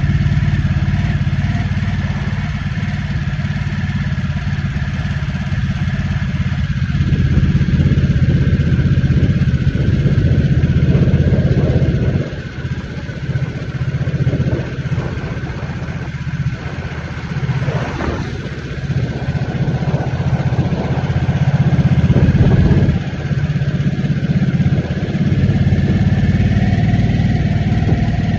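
2023 Harley-Davidson Nightster's 975 cc Revolution Max V-twin running under way at cruising speed. The engine note holds steady for about the first twelve seconds, then dips and swells several times with the throttle before settling again.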